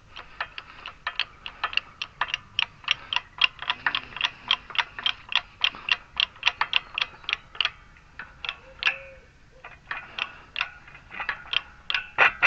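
Rapid, evenly spaced ratchet clicks, about four a second, as a front wheel bearing is being pressed in. The clicking pauses a little past the middle, then starts again.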